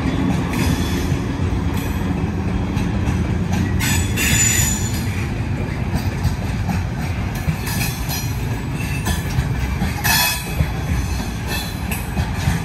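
Container wagons of an intermodal freight train rolling past: a steady, loud, low rumble of steel wheels on rail, with two brief bursts of wheel squeal, about four seconds in and about ten seconds in.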